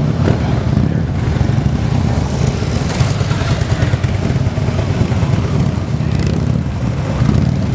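Police motorcycle engine running through a low-speed skills course, its rumble rising and falling a little with the throttle.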